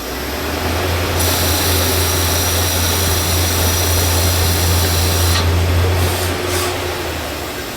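Machine-tool spindle running with a steady low hum while a cutting tool takes a cut in metal for about four seconds, giving a steady high-pitched whine that stops suddenly; the hum then dies away near the end.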